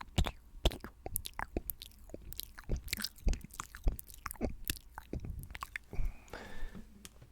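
Close-miked wet mouth sounds for ASMR spit painting: rapid, irregular tongue and lip clicks, several a second.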